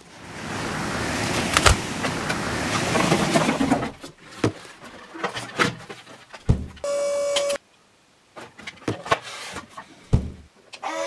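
Plastic toy vehicles being handled: a steady whirring noise for about four seconds, then scattered plastic clicks and knocks, with a short steady electronic tone that cuts in and out a little past the middle.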